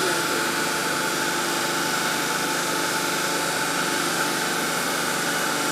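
Steady hum and hiss of workshop machinery running, with a few faint steady tones and no change in level.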